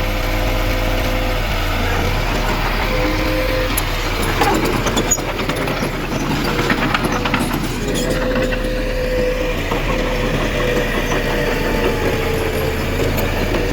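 Heavy diesel earthmoving machinery running steadily with a low hum and a wavering whine, with a few seconds of knocking and clatter near the middle.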